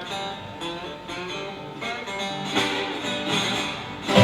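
Acoustic blues guitar played alone between sung lines: plucked notes and strums ringing out, with a sharper strike just before the voice comes back in.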